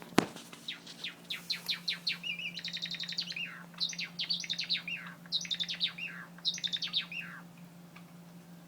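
White Java sparrow singing: a run of quick clicking notes, a short rattle, then three phrases of chattering notes that slide down in pitch, stopping about seven and a half seconds in. A sharp click right at the start and a steady low hum underneath.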